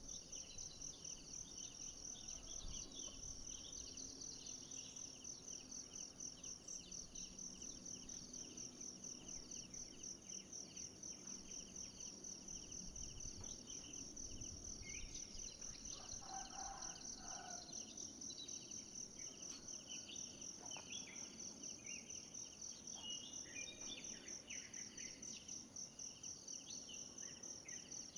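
Forest insect chorus: a steady, fast-pulsing high-pitched trill. Scattered short chirps and a few brief calls come through over it in the second half.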